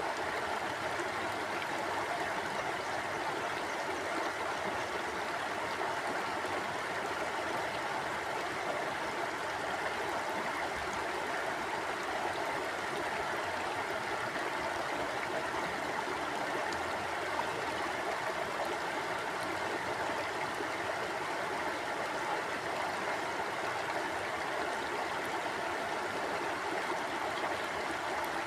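Shallow stream flowing steadily over rocks, a constant rushing and gurgling of water with no breaks.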